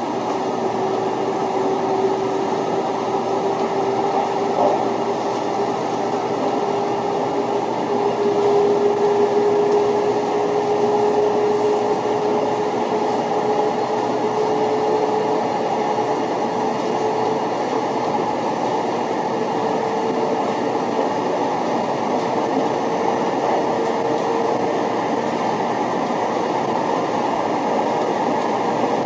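0 Series Shinkansen car running at speed, heard from inside the car: a steady, loud running noise with a tone that rises slowly in pitch throughout.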